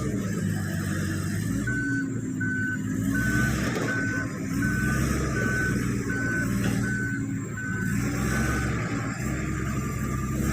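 Komatsu D85PX bulldozer's diesel engine running while its backup alarm beeps steadily, about ten evenly spaced beeps: the dozer is reversing.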